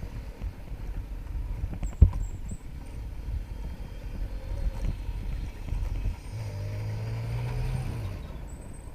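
Traffic and wind noise heard while riding a motorcycle: a continuous low rumble, with a sharp knock about two seconds in and a steady low hum for a couple of seconds near the end.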